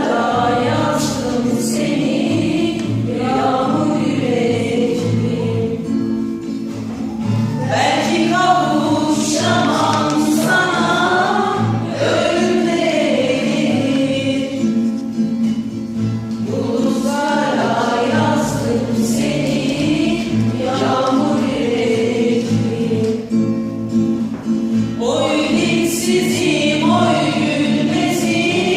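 A song: a voice singing in phrases a few seconds long over steady instrumental accompaniment.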